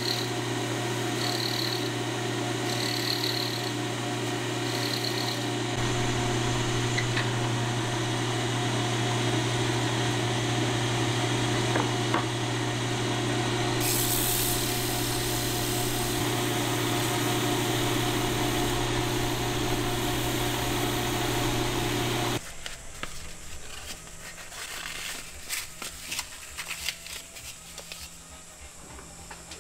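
An electric power tool's motor running steadily, stopping abruptly about three-quarters of the way through, followed by quieter, irregular handling and rubbing noises.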